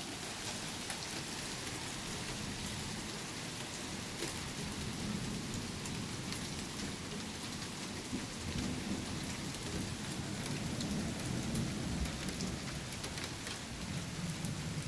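Steady rain falling on pavement, with scattered sharp ticks of drops striking. A low rumble of distant thunder comes and goes through the middle and latter part.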